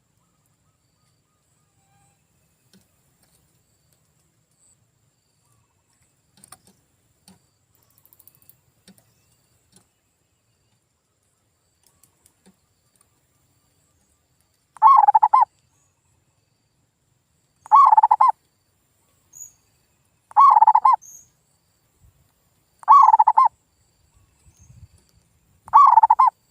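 Male zebra dove (perkutut) singing its cooing song. There are five calls, each under a second long and about two and a half seconds apart, starting about halfway through after a near-silent stretch.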